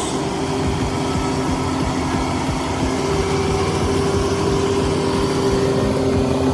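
A heavy vehicle's engine running steadily with a constant low hum.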